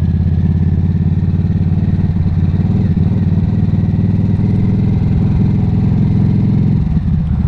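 Harley-Davidson motorcycle's V-twin engine running steadily at an even pitch, heard from the rider's seat.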